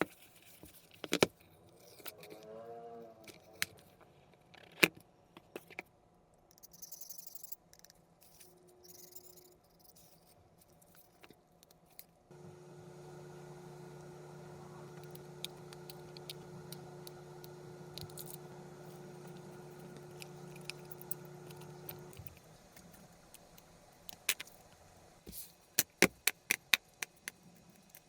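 Small clicks, taps and scrapes of tools handling a Samsung Galaxy S24 Ultra as it is taken apart, with a steady electric hum for about ten seconds in the middle that stops abruptly, and a quick run of sharp clicks near the end.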